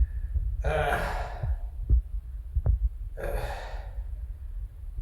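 A man's breath sounds: two short breathy gasps about two and a half seconds apart, with two faint clicks between them.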